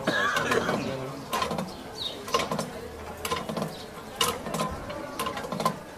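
Irregular sharp mechanical clicks and clacks from the churro vendor's equipment, a ratchet-like clicking as the churros are made.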